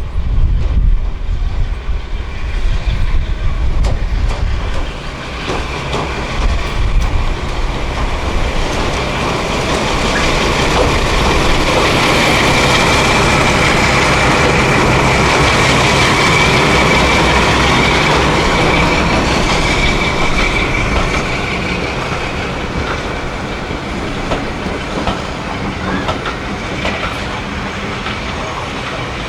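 A train passing, its wheels clicking over the rail joints. The sound swells to a peak in the middle and fades away, with a thin high wheel squeal at its loudest.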